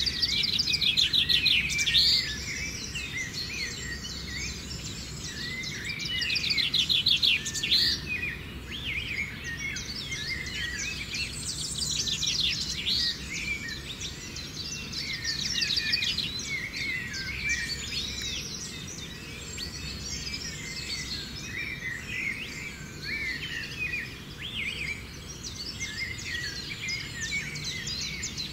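Forest birds calling and chirping, many overlapping chirps throughout, with a loud fast trill at the start and again about six seconds in.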